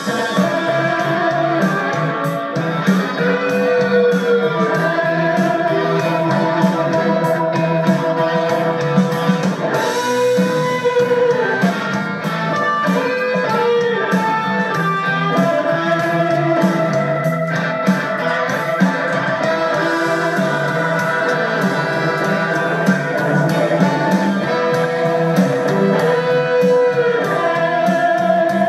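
Music with guitar played from a laptop through a home-built discrete transistor power amplifier (25 W into 8 ohms) into a speaker, as a listening test of the amplifier. Almost no bass comes through below about 100 Hz.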